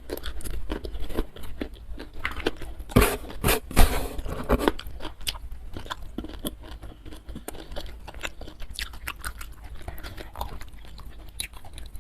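Close-miked chewing and crunching of food in a person's mouth, a steady run of small wet crunches with a few louder bites about three to four seconds in.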